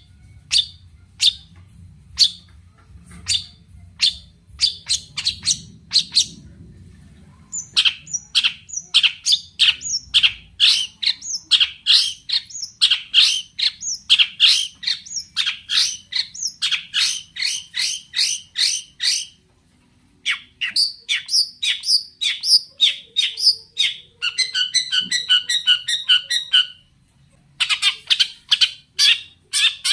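Long-tailed shrike singing. It opens with single sharp calls about once a second, then breaks into a fast run of harsh, chattering notes. After a short pause come more notes, a rapid even trill about three-quarters of the way in, and a last burst of fast notes.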